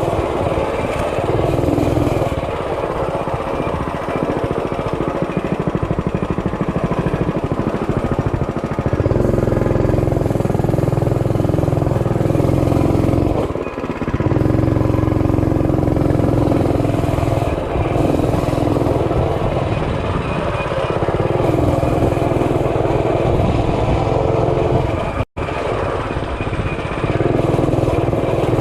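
Mini bike's small engine running while being ridden, its speed rising and falling with the throttle. The sound breaks off for an instant about 25 seconds in.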